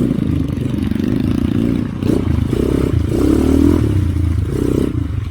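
Motorcycle engine running with its pitch rising and falling as the throttle is worked.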